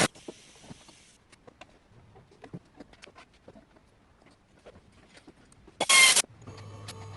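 Scattered clicks and clinks of tools on metal during engine work, with one loud harsh burst of under half a second about six seconds in, followed by a brief steady low hum.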